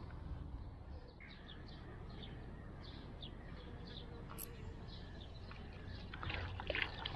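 Faint, repeated short bird chirps, about one or two a second, over low outdoor background noise, with a cluster of short clicks and rustles near the end.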